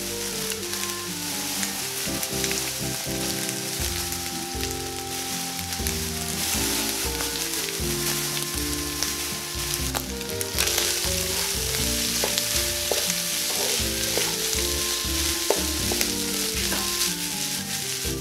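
Cooked rice and kimchi sizzling in oil in a hot wok, the sizzle growing louder about ten seconds in. In the second half a wooden spatula stirs and scrapes the rice through the pan.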